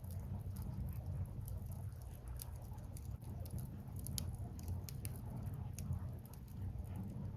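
Firewood burning in a bonfire, crackling with many small irregular snaps and pops over a steady low rumble.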